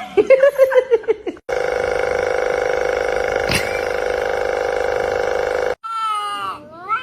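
A brief voice at the start, then a steady, unchanging hum with several tones for about four seconds that cuts off suddenly. Near the end a cat meows with a falling, gliding pitch.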